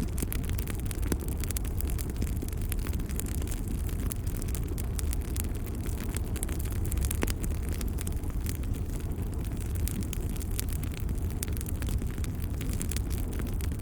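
Wood fire crackling in a fireplace: a steady low rumble with many quick pops and crackles scattered throughout.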